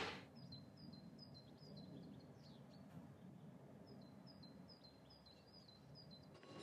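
Faint chirping of a small bird: two runs of short, high, repeated chirps, a couple a second, the second run starting about four seconds in, over a faint low background rumble.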